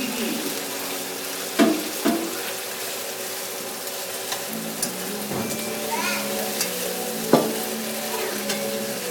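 Food stir-frying in hot vegetable oil in a pan, with a steady sizzle. A utensil knocks sharply against the pan about a second and a half in, again half a second later, and once more near the end.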